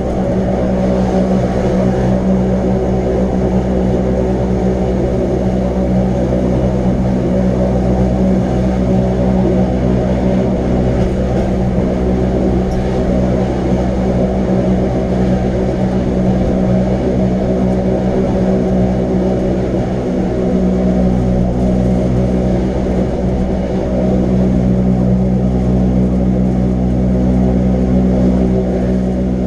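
Wengernalpbahn rack-railway train running at a steady pace, a loud even drone with several held tones from its motors and running gear.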